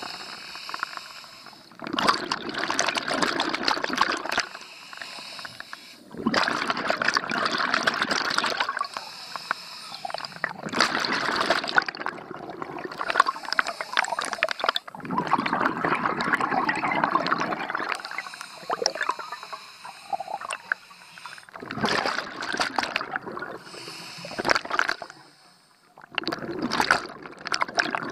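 Scuba diver breathing underwater through a regulator: exhaled bubbles rush out in repeated bursts of two to three seconds, with quieter pauses between breaths.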